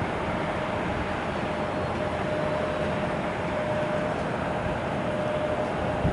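Steady running noise of a Boeing 777 jet airliner, with a constant whine held on one pitch. A brief thump comes just before the end.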